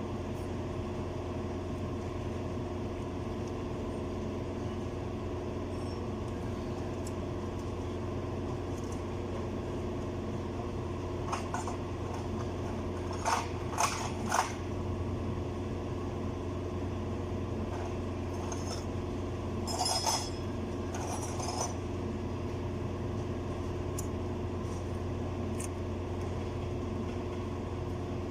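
A steady machine hum runs throughout. Metal clinks sharply several times over it: three close together about halfway through, then two more a few seconds later, like hand tools knocking on steel parts.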